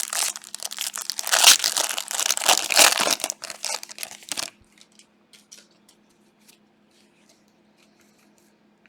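Plastic foil wrapper of a Panini Prizm trading-card pack being torn open and crumpled, a dense crackling for about the first four and a half seconds, followed by faint light ticks of cards being handled.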